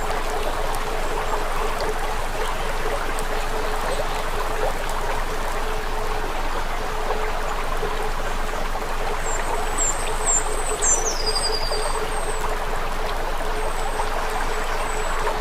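A steady rushing noise like running water, with a low steady hum under it. From about nine seconds in, a small bird gives a series of short, high chirps, one of them sliding downward.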